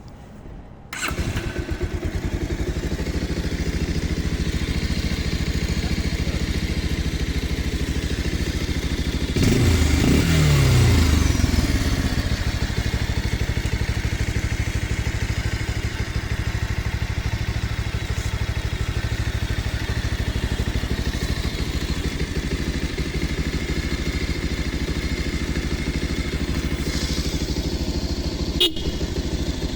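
Bajaj Pulsar 180's single-cylinder engine starting about a second in, then idling steadily. Around the middle there is one blip of the throttle that falls back to idle, and a short click near the end.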